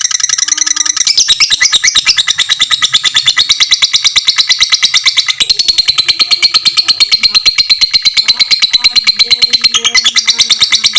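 Lovebird singing a long 'ngekek' chatter: a loud, unbroken run of rapid, high, evenly repeated notes, about ten a second.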